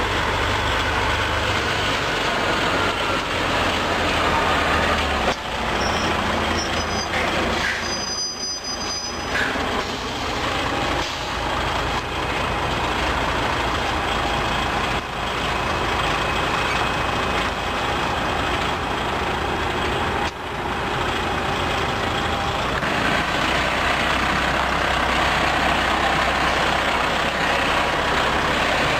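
Big truck's engine running steadily, its low drone shifting in pitch a few times.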